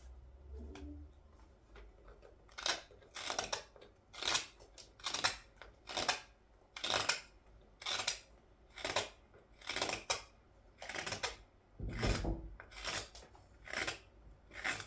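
Hand carving blade cutting into green cherry wood to hollow out a large scoop: a rhythmic run of short slicing scrapes, a little more than one a second, starting about two seconds in.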